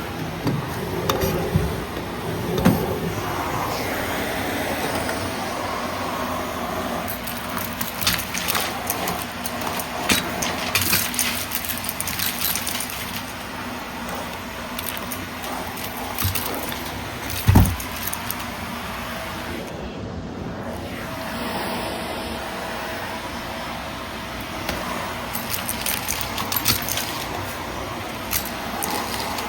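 Vacuum cleaner running steadily, with scattered crackles and ticks of mess being sucked up and one heavy thump about seventeen seconds in.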